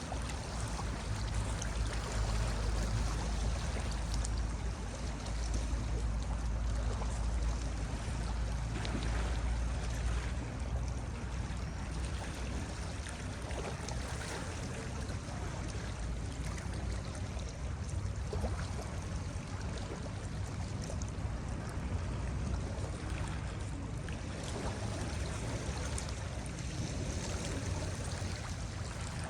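Ocean surf washing onto a beach: a continuous wash of water with a deep rumble underneath, swelling and easing gently.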